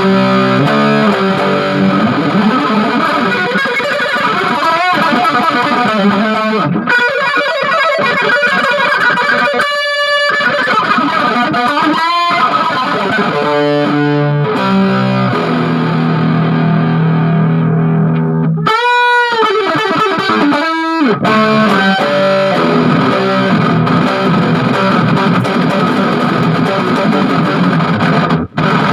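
Distorted electric guitar played through an Orange Crush 20 solid-state practice amp at high volume. It is a continuous run of riffs with held notes and several string bends about two-thirds of the way through.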